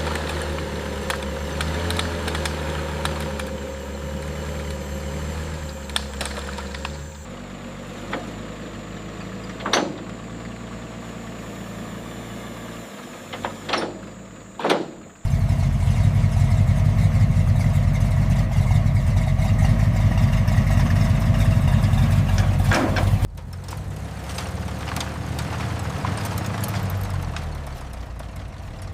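Car engine running at idle, with a few sharp clicks; a little past halfway it becomes much louder for about eight seconds, then drops back to a quieter idle.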